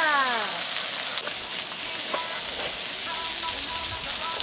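Meat sizzling steadily on a hot iron griddle plate.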